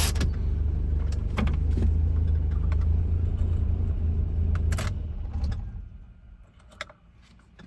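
1985 Nissan 720 pickup engine idling steadily, then shut off about five and a half seconds in, its hum dying away over about a second. Scattered clicks and a jangle of keys run through it, with a faint click after the engine stops.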